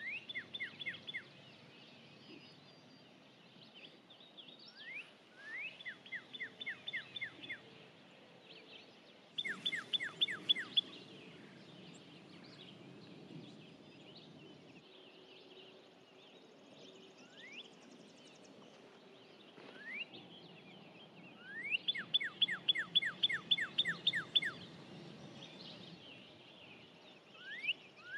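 A songbird singing the same phrase over and over, a rising note then a quick run of about eight short, evenly spaced notes, repeated every four to six seconds.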